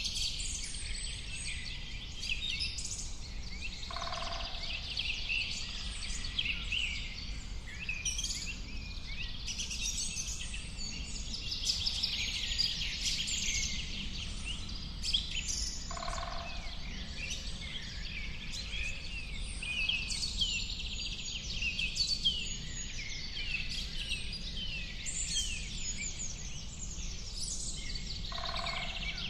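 Many songbirds chirping and trilling in a dense, unbroken chorus, with a short lower call repeating about every twelve seconds.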